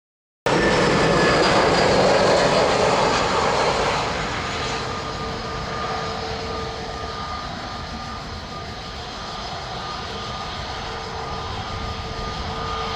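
Jet engines of an Airbus A321-211 freighter (CFM56 turbofans) running. The sound is loud for the first four seconds or so, then settles to a lower, steady run with a thin whine.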